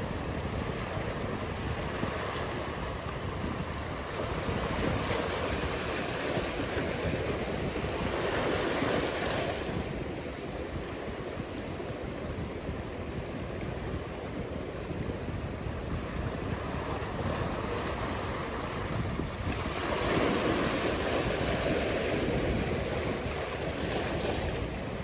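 Ocean surf: a steady wash of breaking waves that swells louder about a third of the way in and again just past the middle, with wind rumbling on the microphone.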